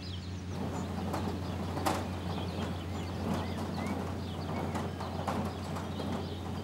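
Carrot harvester running with a steady engine hum. From about half a second in, a busy, irregular clatter of knocks sets in as carrots tumble along its discharge elevator.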